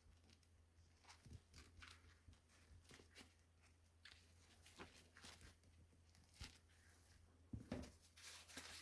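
Faint scattered clicks and rustles of hands handling small parts and wires, over a low steady hum, with a louder run of rustling clicks near the end.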